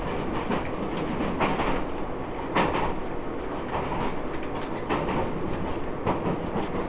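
Taiwan Railways EMU800 electric commuter train running at speed, heard from inside the car: a steady rumble of wheels and running gear, with the wheels clacking about once a second.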